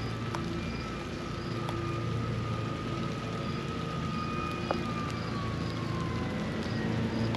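Distant engine droning over a low steady hum, its pitch sliding slowly down from about five seconds in, as of a vehicle or boat passing by. A few sharp clicks and faint high chirps sound through it.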